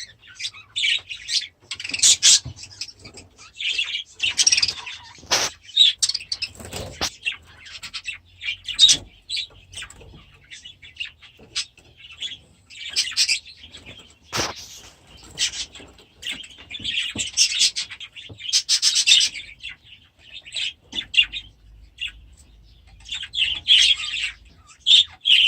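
A birdroom of budgerigars and canaries chirping and chattering in quick, irregular bursts, with a few sharp clicks.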